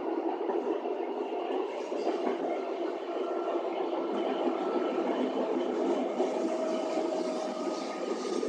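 Passenger train running along the line, heard from inside the carriage: a steady rumble of wheels on rails, with faint whining tones coming and going.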